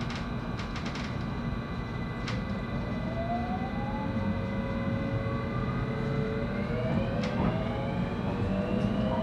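Interior sound of a JR West 223-series electric train accelerating: the VVVF inverter and traction motors give a whine that climbs steadily in pitch, in two rising sets of tones, over the steady rumble of the wheels. A few sharp clicks come in the first couple of seconds.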